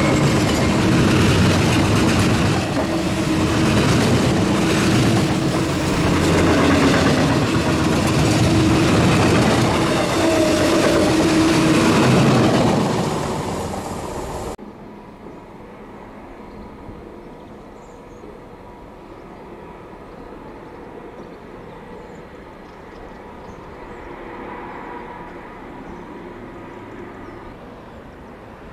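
Loaded steel-coil wagons of a freight train rolling past at speed, wheels clattering and rumbling over the rails. About halfway through the sound cuts off abruptly to a quiet outdoor background.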